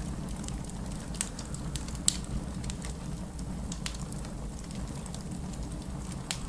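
Wood fire in a fireplace crackling over a steady low rumble, with frequent small snaps and one louder pop about two seconds in.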